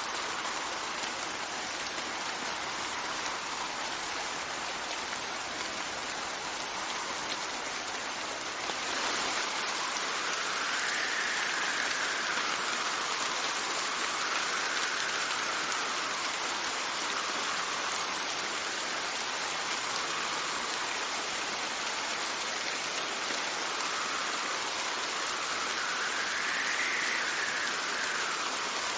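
Steady rain with wind, a soft whistle rising and falling every few seconds as the wind gusts. The rain gets a little louder about nine seconds in.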